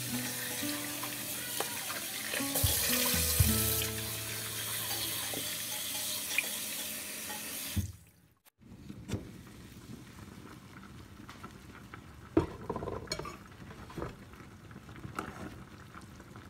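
Tap water running into a stainless steel pot of fish pieces in a sink, splashing over them as they are rinsed, for about eight seconds. It cuts off, and a much quieter stretch follows with a few light clinks of a ladle against the pot.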